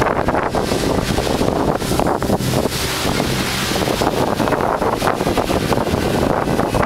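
Steady wind buffeting the microphone on the deck of a sailing ship at sea, with the wash of the water beneath.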